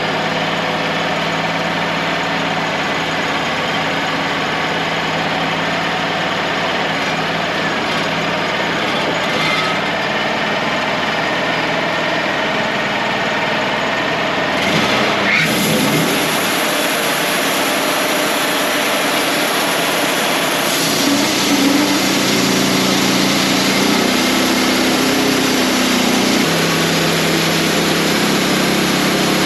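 Wood-Mizer LT35 hydraulic portable sawmill running, its bandsaw blade sawing boards from a red oak log. The sound changes about halfway through, and steady tones come and go in the second half.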